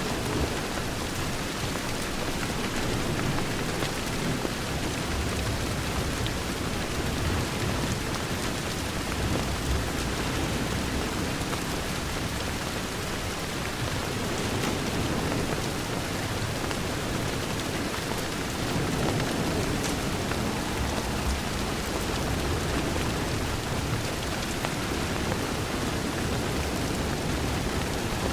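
Steady, heavy rain falling on a window, an even wash of noise with a low rumble underneath.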